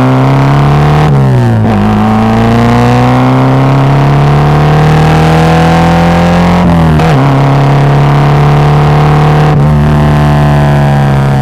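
Volkswagen Gol G2's AP four-cylinder engine running through a straight-through exhaust with no muffler, pulled hard through the gears. The engine note climbs, drops at an upshift about a second in, then climbs for several seconds. It drops again with shifts near seven and nine and a half seconds in and keeps rising after the last one.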